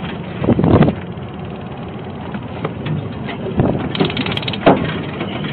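Tractor engine running steadily under the scuffle, with a few short louder bursts about half a second in and again around four seconds in.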